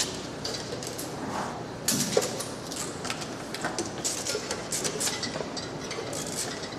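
Metal engine parts and hand tools clinking and clattering as an engine is assembled, a string of irregular sharp clicks and knocks.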